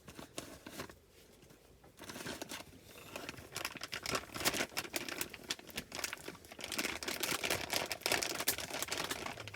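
Plastic packaging crinkling and rustling as it is handled, in dense rapid crackles, with a short quieter pause about a second in.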